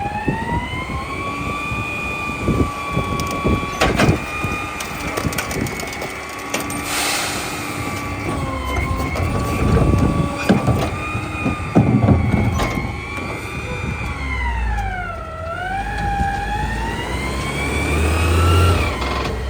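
Mack LEU garbage truck's New Way rear loader running a packing cycle: a high whine that rises and falls in pitch, dipping sharply and recovering about three-quarters of the way through. Sharp cracks and knocks of trash being crushed are heard over a low engine rumble.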